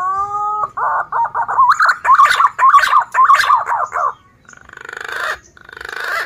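Male punai daun green pigeon singing: a rising whistled note, then a long run of quick warbling, fluting notes, then two harsher, buzzier rising notes near the end.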